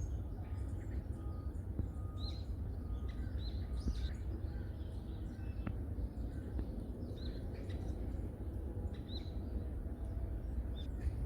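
Songbirds calling in a forest: short high chirps that recur every second or two, with a steady low rumble underneath.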